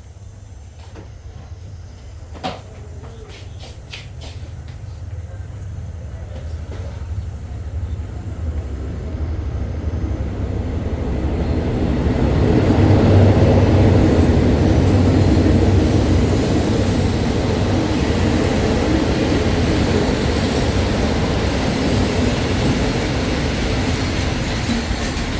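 Diesel passenger train approaching along the line: a low engine rumble and the noise of wheels on rails grow steadily louder for about twelve seconds, then keep running loud and steady as the train comes through.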